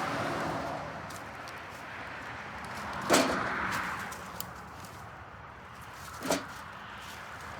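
Two sharp cracks of dry wood over rustling, the louder one about three seconds in and a shorter one about three seconds later, as firewood is gathered.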